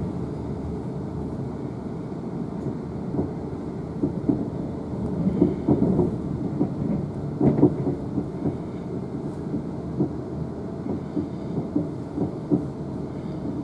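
Siemens Desiro electric multiple unit heard from inside the carriage while running: a steady low rumble of wheels on rail, with irregular knocks and clatter from the wheels and bogies, thickest in the middle.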